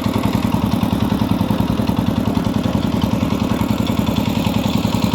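Single-cylinder engine of a walking tractor (microtrator) running steadily while it pulls its trailer, with an even, rapid chug of about eight beats a second and some rattling.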